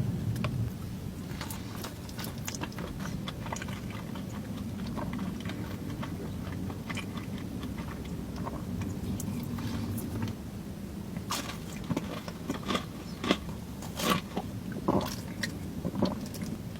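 A person biting into and chewing food close to the microphone, with crisp crunches and wet chewing. The bites come thicker and louder near the end, over a steady low hum.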